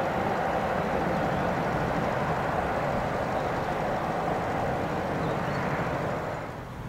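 Freight train of loaded car-carrier wagons rolling on the rails as it moves away, a steady wheel-on-rail rumble that drops off near the end.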